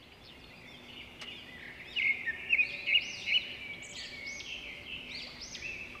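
Birdsong: a rapid stream of short, arching chirps and twitters that fade in and grow louder about two seconds in.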